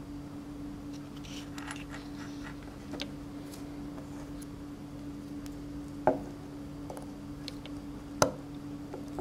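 A steady low electrical hum, with faint scattered ticks and rustles early on and two sharp clicks about two seconds apart in the second half.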